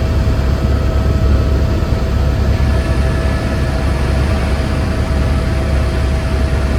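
Steady low rumble of a moving vehicle's engine and running noise, with a faint constant hum.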